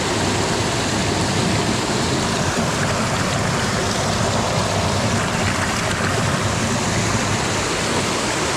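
Mountain stream water rushing steadily over rocks, close by and loud.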